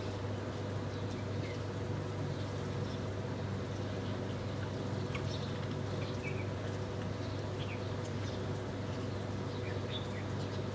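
Small birds giving scattered short chirps and calls over a steady low hum.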